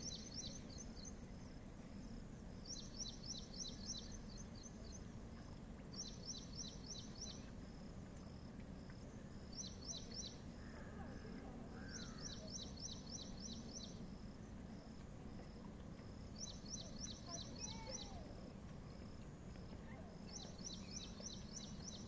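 A songbird repeating a short phrase of rapid high notes about every three to four seconds, over a steady high whine and a low background rumble.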